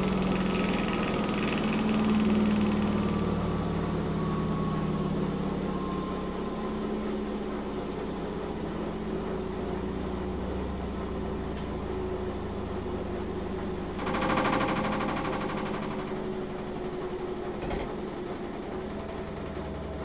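Miele W 5963 washing machine spinning with the noise it makes on the spin: a steady mechanical hum with a whine that falls slowly in pitch as the drum slows. A louder surge of noise comes about fourteen seconds in and lasts a couple of seconds, and there is a short click a little later.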